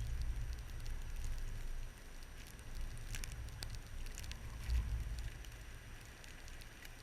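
Blizzard wind gusting against the microphone as an uneven low rumble, easing about two seconds in and swelling once more near five seconds, with scattered light ticks over it.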